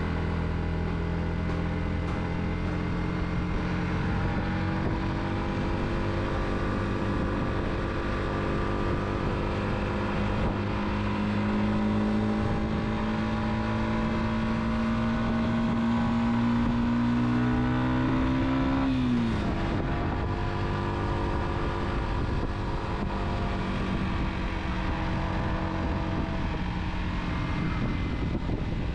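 Car engine running steadily over road noise. Its pitch climbs slowly for about fourteen seconds as the revs rise, then falls sharply about nineteen seconds in and levels off again.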